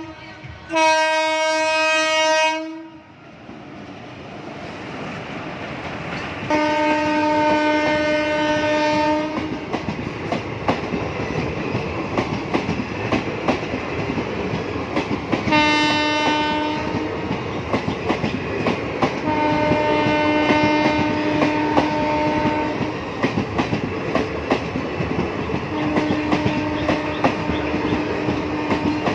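Train horn sounding about five times, a loud short blast near the start and then longer held blasts, over the steady rumble and clickety-clack of train wheels running on the rails.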